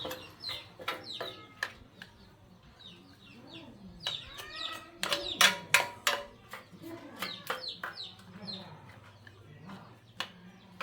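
Chickens clucking, mixed with a series of sharp knocks and taps; the loudest knocks come about five to six seconds in.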